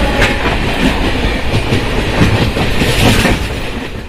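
Express train passing at speed close by: a loud rumble with the clickety-clack of the coaches' wheels over rail joints. It fades quickly near the end as the last coach goes by.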